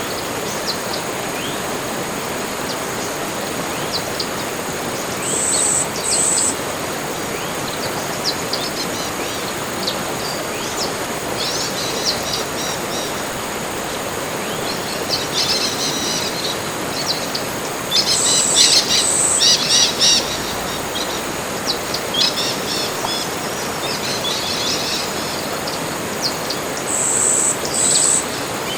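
Tropical forest birds calling over a steady background hiss. Two short high whistled notes come twice, near the start and near the end, and in the middle there are bursts of rapid chattering calls, loudest around two-thirds of the way through.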